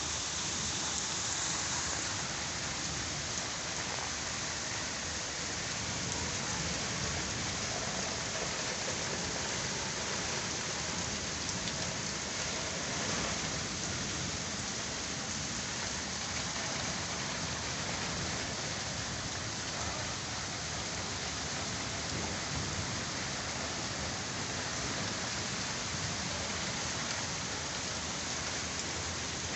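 Heavy rain falling steadily, a continuous even hiss of rain hitting surfaces.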